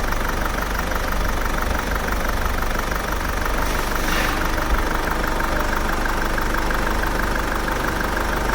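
Diesel car engine idling steadily with an even clatter, running smooth now that a clogged fuel filter, which had been making the injector control valves jam, has been replaced.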